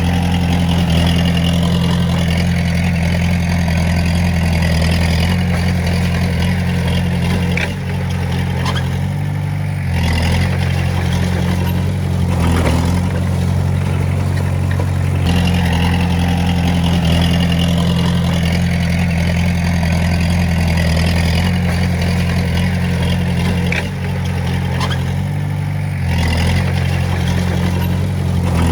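Komatsu D20A bulldozer's diesel engine running steadily while working. Its pitch shifts briefly a few times, around a third of the way in, in the middle and near the end.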